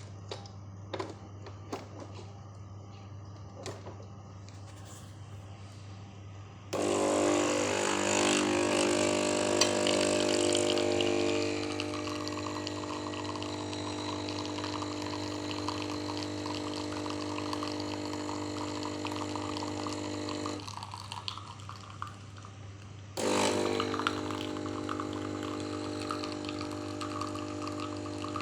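Espresso machine pump switching on suddenly after a few light clicks, running with a steady pitched hum over rushing water, cutting out for a couple of seconds, then starting up again.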